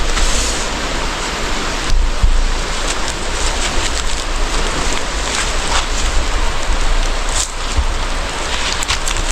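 Dense undergrowth rustling and crackling as someone pushes through it on foot, with twigs snapping every so often over a low rumble on the microphone.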